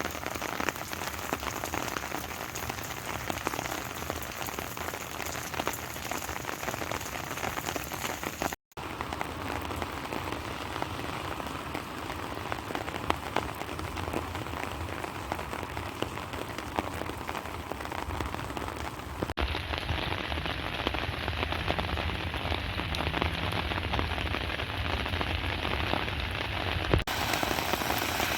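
Rain falling in large drops, a dense steady patter of hits. It breaks off for an instant about a third of the way through, and later the high part of the sound is dulled for several seconds.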